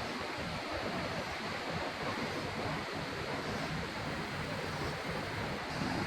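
Steady rushing of Kegon Falls, the 97 m waterfall, an even wash of water noise that holds the same level throughout.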